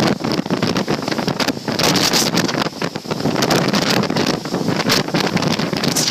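Strong wind gusting over the microphone: a loud, rough rushing noise that surges and drops, easing briefly about three seconds in.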